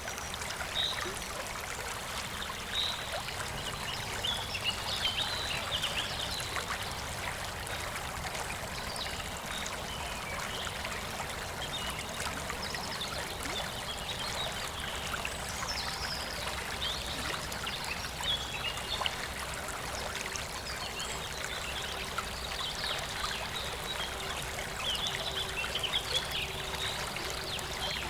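Clear water of a small rural river flowing steadily, with a trickling sound and small higher-pitched splashes scattered throughout.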